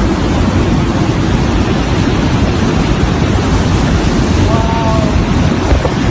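Hurricane-force wind blowing, a loud steady rushing noise with heavy low buffeting of the microphone.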